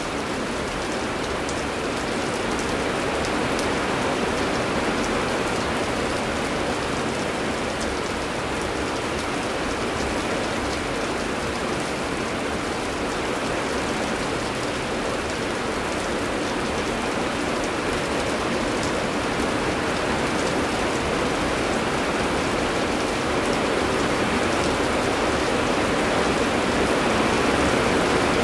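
Steady heavy rain, a dense even hiss with fine drop patter, growing a little louder near the end.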